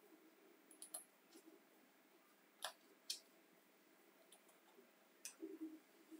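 A few faint, sharp clicks and light taps from small parts being handled, with a short cluster of taps near the end.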